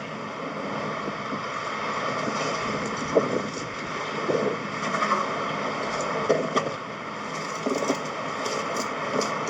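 Excavator's diesel engine idling steadily, with a few light knocks and clinks scattered through it.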